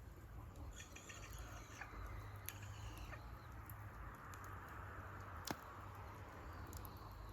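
Wood campfire crackling, with scattered small pops and one sharp pop about five and a half seconds in.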